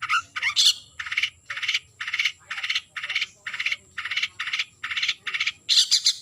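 Long-tailed shrike giving a run of harsh, rasping scolding calls, about two a second, the territorial calls used to challenge a rival shrike. A few glided notes open the run, and a quicker burst of calls comes near the end.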